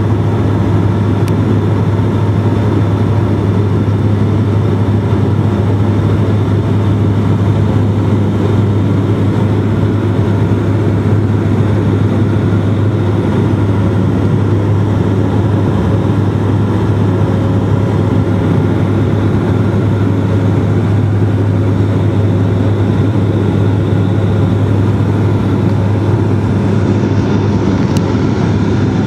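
Bombardier Dash-8 turboprop's propellers and engines droning steadily, heard inside the passenger cabin: a strong, constant low hum under a steady rush of cabin noise.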